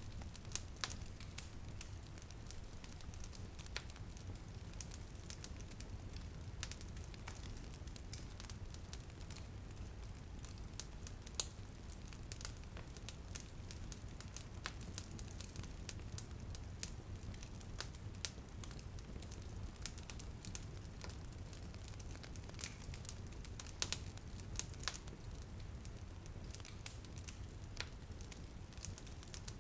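Wood fire crackling in a fireplace, with irregular sharp pops and snaps over a steady low rumble. Light rain is pattering on a window behind it.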